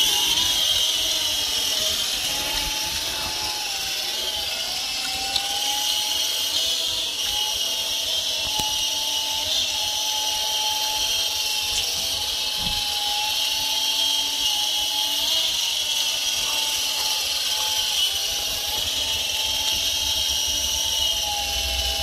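A cheap 3.5-channel RC helicopter flying: the steady high whine of its small electric motors over a rushing hiss from the rotors. The pitch wavers slightly as the throttle is worked.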